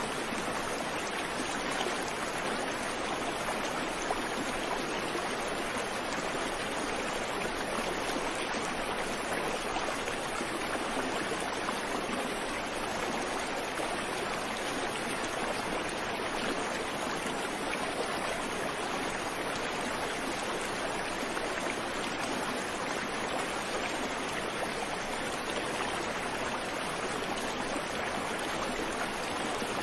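Creek water flowing over rocks in a steady, even rush, with no birdsong.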